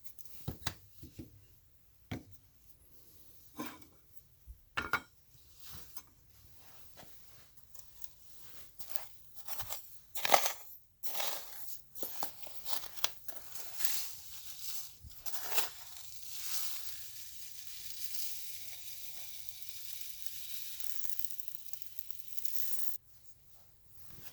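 Paint-removal work on antique fan parts: scattered clicks and clinks of metal being handled, then rough scraping noise that settles into a steady hiss for about seven seconds and cuts off suddenly near the end.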